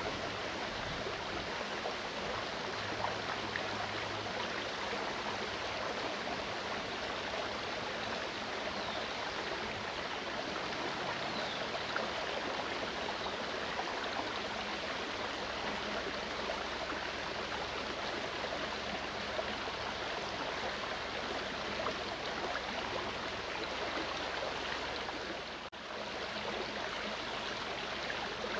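Clear mountain stream flowing: a steady rush of running water, with a brief dip in level near the end.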